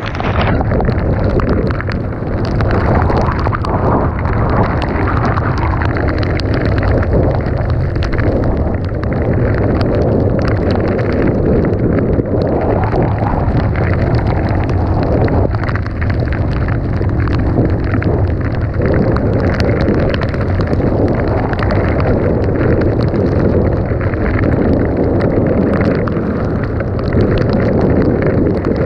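Dirt bike engine running steadily while riding, heavily buffeted by wind on the microphone, with frequent sharp crackles.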